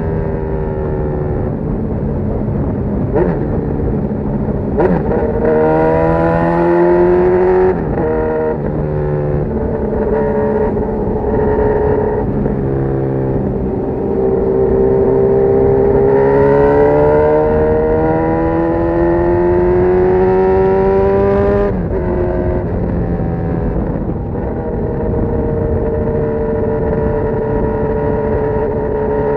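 Honda CB1000R's inline-four engine through a full GP Lougan RS Evolution aftermarket exhaust, running under load with its pitch climbing and falling; twice the pitch climbs and then drops sharply, as at a gear change.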